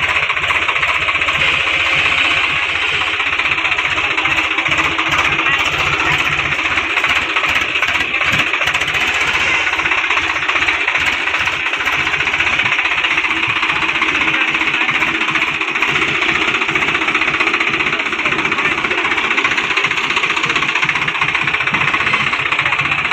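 Swaraj 735 XT tractor's three-cylinder diesel engine running steadily, with a fast, hard knocking clatter.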